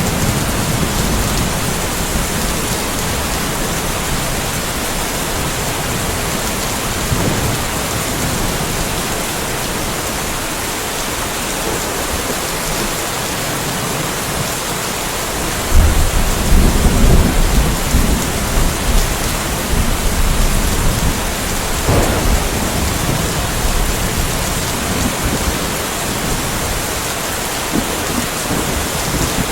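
Steady rain with thunder. A low rumble of thunder fades over the first couple of seconds, then about halfway through a sudden loud thunderclap breaks in and rumbles on for several seconds.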